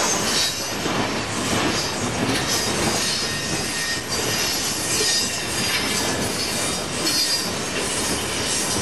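Loaded coal train's hopper cars rolling past, steel wheels running on the rails with a high screeching that comes and goes.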